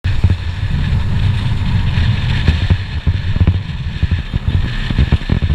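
Motorcycle running on the road during a ride, with wind buffeting the microphone in irregular low thumps.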